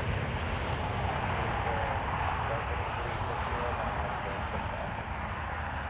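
Jet airliner engines running with a steady rush that swells slightly a couple of seconds in, over a heavy low rumble of wind buffeting the microphone.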